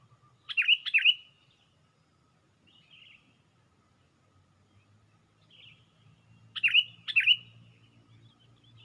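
Sooty-headed bulbul (kutilang) calling: a loud pair of sharp notes about half a second in, repeated about six seconds later, with softer calls between.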